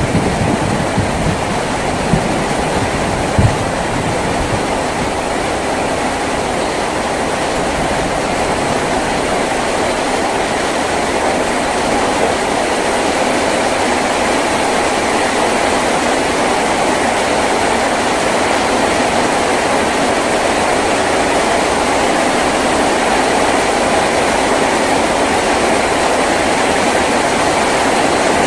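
Heavy rain drumming steadily on a tin roof, a dense even hiss that grows slightly louder, with two brief low thumps about two and three and a half seconds in.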